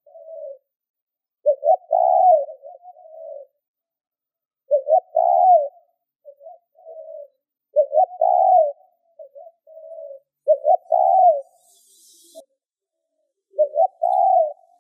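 Spotted dove cooing: low, rolling coo phrases repeated roughly every three seconds, each loud phrase followed by a few softer, shorter coos. It is the male's excited cooing call, the kind used from a decoy bird to provoke wild males.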